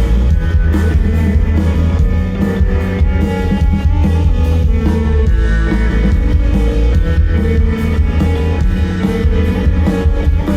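A live band playing a rock song: electric guitar and drum kit over a heavy, booming bass.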